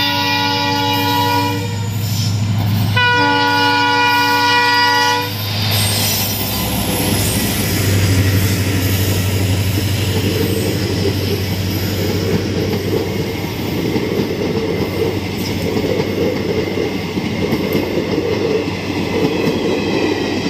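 A passenger train's locomotive sounds its multi-tone horn twice, each blast about two seconds long. The coaches then pass close by with a steady rumble and the clatter of wheels over the rails.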